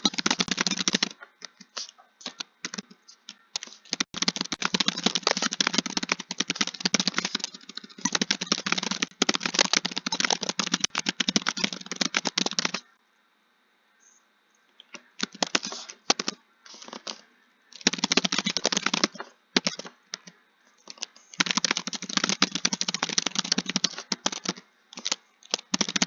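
Fast typing on a keyboard: long runs of rapid keystrokes broken by short pauses and scattered single key presses, with a near-silent break of about two seconds around halfway through.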